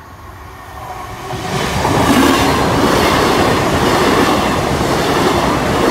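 LNER Azuma (Class 800) train passing through a level crossing. Its noise builds over the first two seconds as it arrives, then holds as a steady, loud rush of wheels on the rails.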